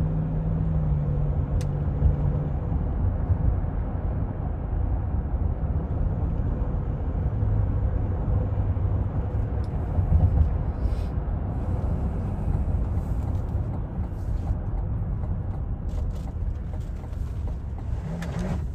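2024 Cadillac Escalade with its 6.2-litre V8 on the move: a steady low rumble of road and engine noise. A low engine drone fades out a couple of seconds in, and a deeper hum swells for a few seconds around the middle.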